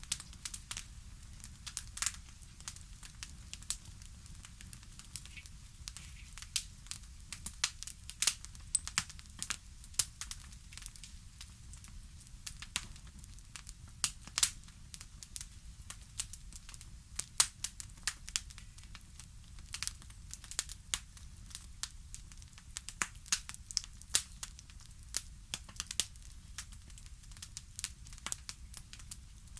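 Wood fire crackling in a fireplace: irregular sharp pops and snaps over a low steady rumble of the burning fire.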